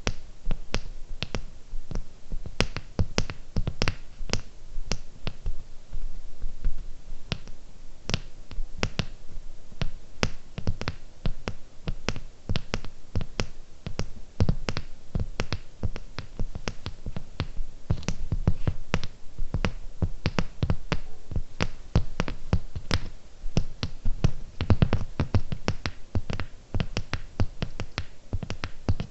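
Close-miked fingernail tapping on cubic zirconia gems: quick, irregular clicks several times a second, each with a soft low thump.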